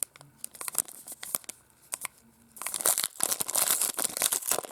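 Wrapper of a baseball card pack being torn open and crinkled. It crackles in short bursts, pauses for about a second midway, then crinkles more steadily.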